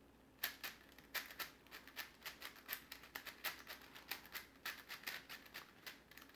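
Plastic layers of a big Rubik's-style puzzle cube being turned fast, a quick run of light clicks about four to five a second, starting about half a second in. This is the edge-pairing stage of the reduction method, just before the cube is solved like a 3x3.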